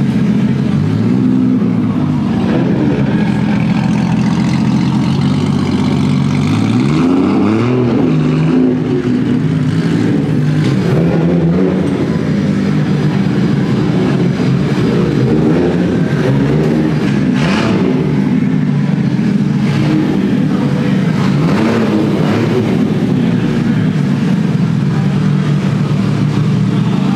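Car engines running close by, the revs rising and falling several times, with the clearest climbs about seven seconds in and again around twenty seconds.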